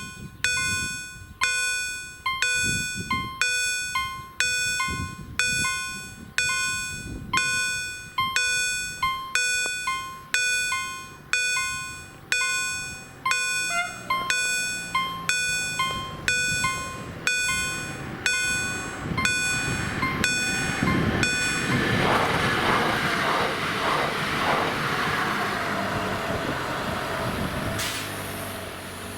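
Level-crossing electronic warning bells (EHL-S08/EHL-S10 type) strike about once a second, each stroke a bright bell tone that dies away. A train's rumble grows from about halfway through. The bells stop about three-quarters of the way in as the train passes with a loud, steady rushing noise.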